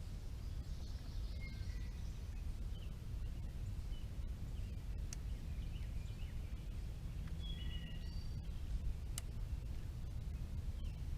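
Outdoor background: a steady low rumble with faint bird chirps scattered through it, and a couple of sharp clicks, one near the middle and one later on.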